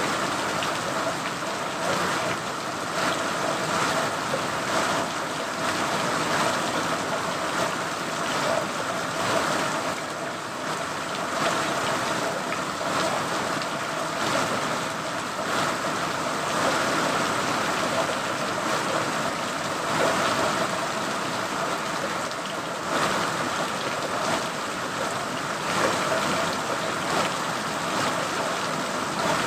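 Steady rain falling, a continuous even hiss with many small drop hits scattered through it.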